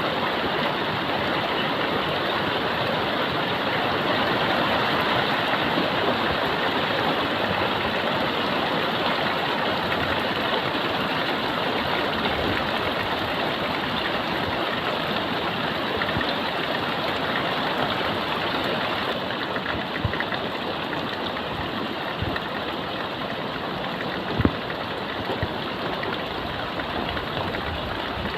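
Heavy rain falling steadily as a dense, even hiss. A few single drips or taps sound near the end, the loudest about 24 seconds in.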